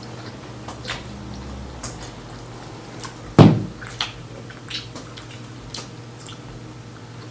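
Small wet clicks and smacks of eating at the table, with one louder thump about three and a half seconds in, over a steady low hum.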